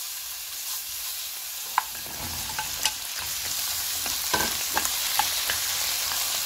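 Minced garlic sizzling in hot oil in a nonstick wok; about two seconds in, shishito peppers go in and are stir-fried, and the sizzle grows fuller. A spatula taps and scrapes against the pan several times as it stirs.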